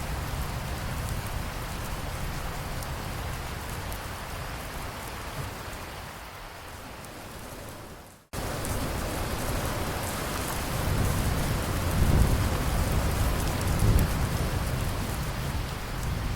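Steady rain falling, with a sudden brief dropout about halfway through where the track cuts and restarts. After that, low rolls of thunder swell up twice.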